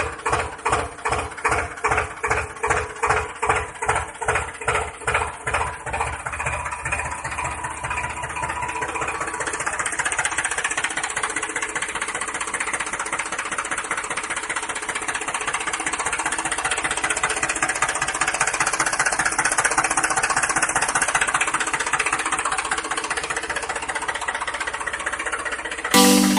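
Engine-like chugging: slow, even knocks about two to three a second that quicken after about eight seconds and merge into a steady buzzing run, cut off abruptly near the end.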